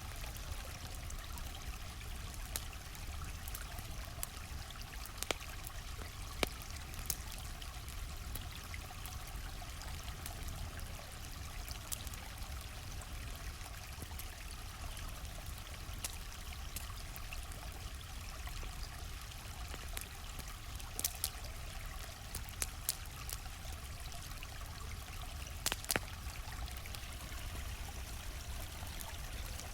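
Small stream flowing steadily, with a wood campfire crackling over it in sharp, irregular pops, a few coming in quick clusters.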